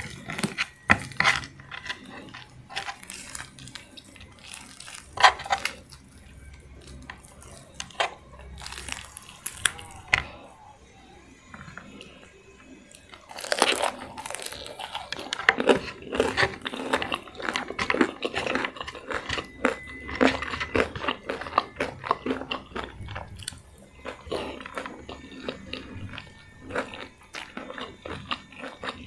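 Close-miked eating: a person biting and chewing crispy fried chicken and raw salad leaves, with scattered crunches and mouth clicks at first, then steady, dense crunching from about halfway through.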